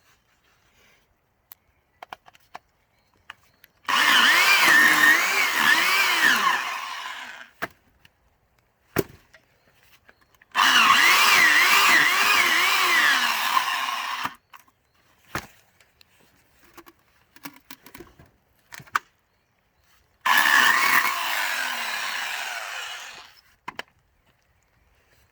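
A 1700-watt electric saw cutting pine logs in three cuts of three to four seconds each, its motor pitch wavering and dipping under load, then winding down as each cut ends. A few small knocks fall between the cuts.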